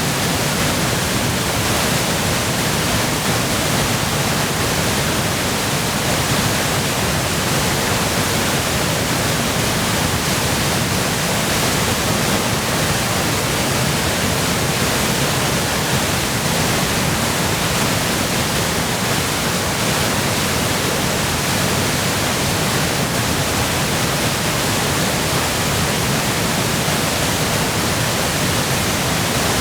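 Waterfall in full spate from spring meltwater and heavy rain: a loud, steady roar of falling water.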